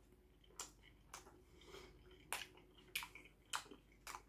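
A person chewing a bite of a soft tortilla chicken burrito with the mouth closed: about six short, sharp mouth clicks, spaced roughly half a second to a second apart, quiet between them.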